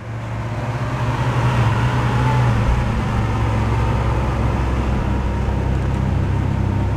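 Lamborghini Aventador SV Roadster's 6.5-litre V12 running at low revs as the car pulls away slowly, a steady low engine drone that swells in at the start.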